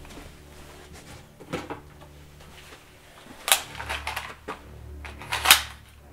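A handful of sharp clicks and knocks from a handgun being taken out from behind a TV and handled. The two loudest come about three and a half and five and a half seconds in.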